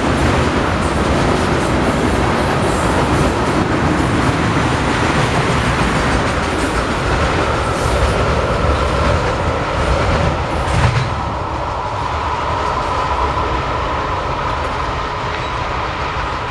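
Freight train of tank cars and a covered hopper rolling past at close range: steel wheels clattering over the rail joints over a continuous rumble, with a steady high tone above it. The sound eases a little about eleven seconds in as the last car goes by.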